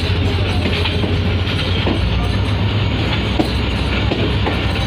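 Passenger train coach running on the track, heard from an open doorway of the moving coach: a steady rumble of wheels on rails with a few irregular clacks and knocks.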